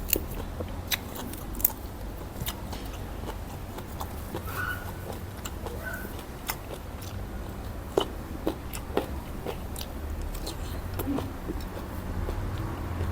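A person eating a bowl of nam tok noodle soup close to the microphone: chewing, with scattered sharp clicks and mouth smacks.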